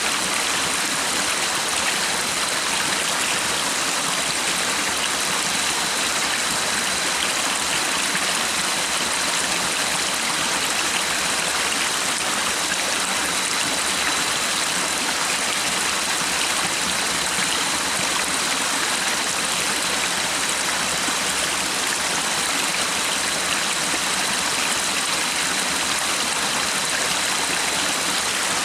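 A stream of water flowing steadily, an even unbroken rush.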